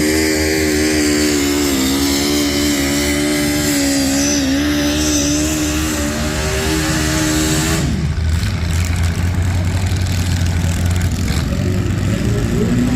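Antique farm tractor engine running hard under full throttle during a pull. About eight seconds in the throttle is cut, the pitch drops away, and the engine settles to a low idle.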